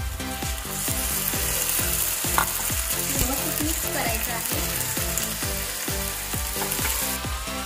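Marinated chicken pieces sizzling loudly as they land in hot oil and browned onions in a frying pan, turned with a slotted spatula. The sizzle starts about a second in and stops shortly before the end.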